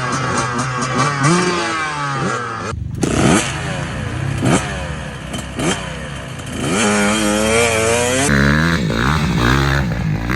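Dirt bike engines revving and riding, the engine pitch repeatedly rising and falling as the throttle is opened and closed.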